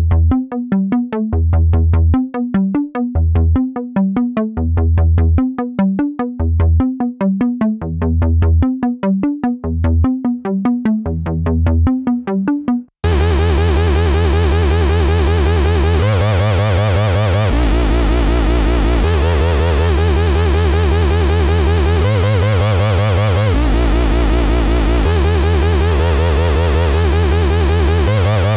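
Sequential Fourm four-voice analogue polysynth playing a plucky bass patch in short, separate notes. About 13 seconds in, it cuts abruptly to a continuous patch with wavering held tones over low bass notes that change every second or two.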